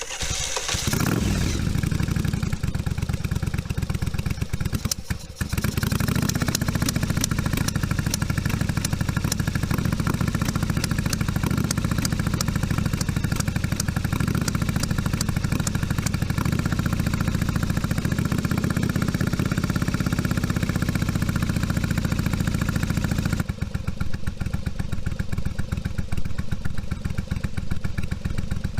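1982 Yamaha Virago XV750's air-cooled V-twin engine catching on starting fluid and running, with a brief dip about five seconds in before it picks up again, then settling to a lower, steadier run near the end. A little choke is on, which the owner says chokes out the rear cylinder while the front runs in tune.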